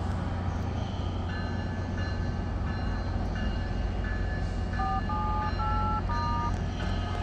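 Tri-Rail train approaching the station from a distance: a low steady rumble, with the locomotive's bell ringing about every two-thirds of a second from about a second in. A short run of chime notes stepping up and down in pitch sounds a little past the middle.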